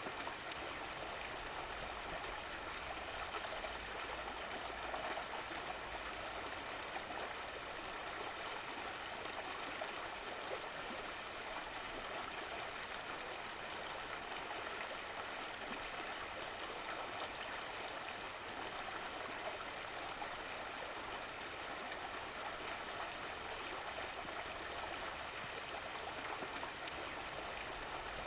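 Running water, a stream flowing steadily over stones with a constant trickling rush.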